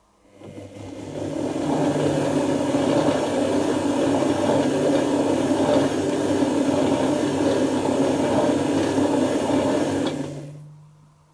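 Dyson Contrarotator CR01 washing machine running on a synthetics wash: a motor hum with churning that builds up over a second or so, holds steady for about nine seconds, then winds down and stops near the end, like one turn of the drums during the wash.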